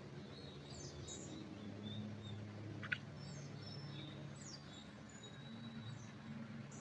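Small birds chirping and calling sparsely over a steady low hum of forest ambience, with one sharp tick about three seconds in.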